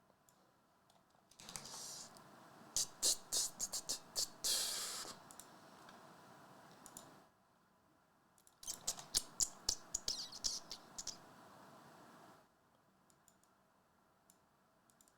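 Two runs of quick clicks and taps on a computer mouse and keyboard, with a pause of about a second and a half between them, as a randomizer is set up.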